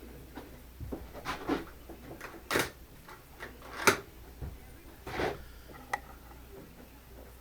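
Handling noises: an irregular run of knocks, clicks and short scrapes, the sharpest knock about four seconds in.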